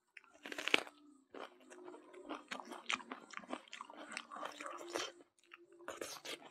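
Close-miked chewing of a handful of rice with smoked pork: a run of small, wet smacks and clicks of the mouth and teeth.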